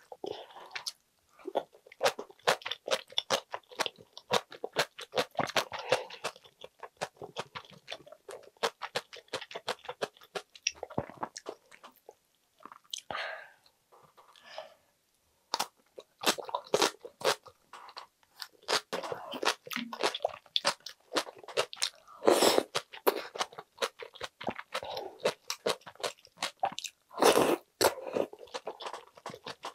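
Close-miked chewing and crunching of aged cabbage kimchi and dumpling soup: many quick, moist crunches and mouth clicks, with a short pause about halfway and a couple of louder bursts in the second half.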